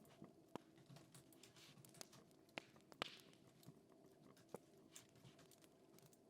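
Faint crackling fire with scattered sharp, irregular pops and ticks, mixed with quiet desk sounds; a brief scratchy rustle comes about three seconds in.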